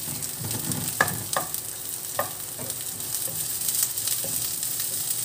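Chopped garlic and sliced onion sizzling in hot oil in a nonstick wok with a steady hiss, stirred with a wooden spoon that knocks and scrapes against the pan a few times in the first half.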